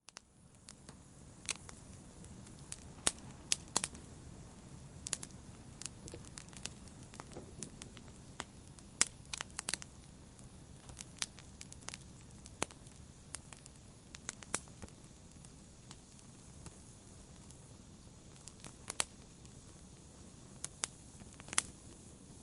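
Wood fire burning in a fireplace: irregular sharp crackles and snaps, some in quick clusters, over a low steady hiss of the flames.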